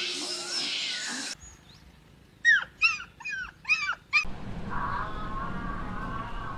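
An animal yelping: about six short, high calls in quick succession, each falling in pitch, a couple of seconds in.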